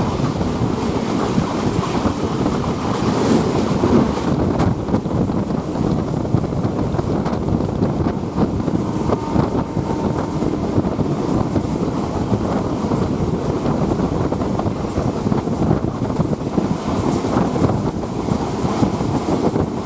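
Steady running rumble of a moving local passenger train, with wind buffeting the microphone.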